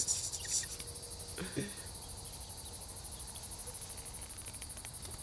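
Steady, high-pitched insect chorus, like crickets, pulsing fast and evenly. A short faint low call or voice comes about one and a half seconds in.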